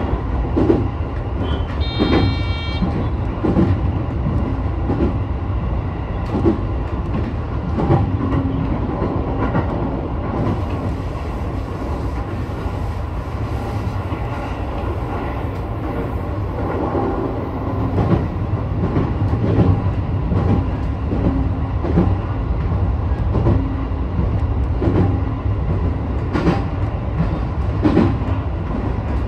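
Sotetsu 12000 series electric train running at speed, heard from the leading car: a steady rumble of wheels on rail with irregular clicks over rail joints. A short high electronic beep sounds about two seconds in.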